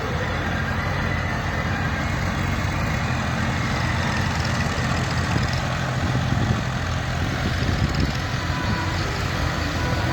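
Massey Ferguson 1035 DI tractor's three-cylinder diesel engine running steadily.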